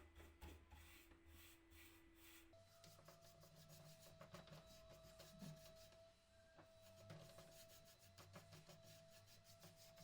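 Near silence: faint rubbing with small clicks, over a faint steady hum that shifts to a higher pitch about two and a half seconds in.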